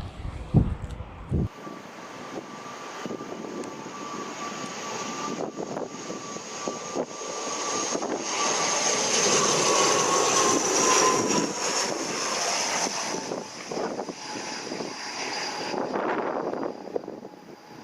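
An airliner passing, its engines giving a steady whine that slowly falls in pitch, loudest midway and easing off near the end. Wind buffets the microphone in the first second or so.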